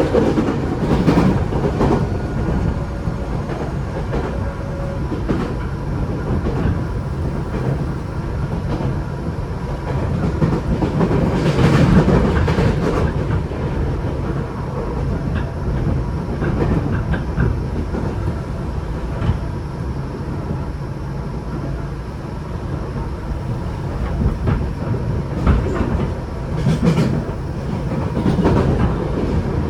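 Tokyo Metro 8000 series electric train running between stations, heard from inside the car: a steady rumble of wheels on rail, with clusters of clacks over rail joints about a second in, around twelve seconds in, and again near the end.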